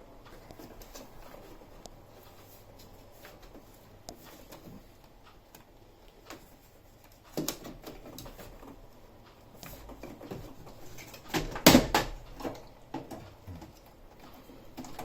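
Scattered clicks and knocks of plastic washing-machine panels being handled and unclipped, loudest in a short burst about two thirds of the way through.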